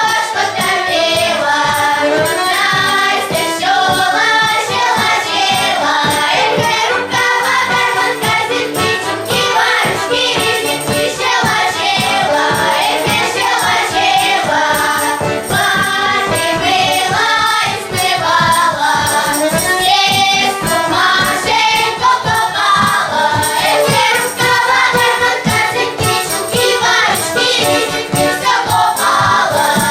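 Choir singing a song with musical accompaniment, a jingling percussion beat running through it.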